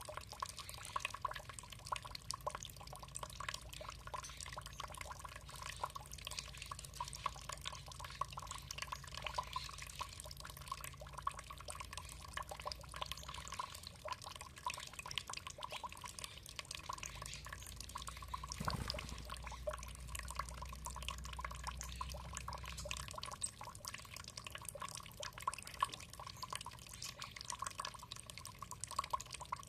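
Water trickling and dripping steadily, a continuous patter of small splashes.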